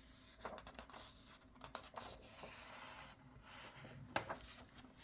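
Faint rustling and scraping of paper with a few soft clicks: a picture book's page being handled and turned.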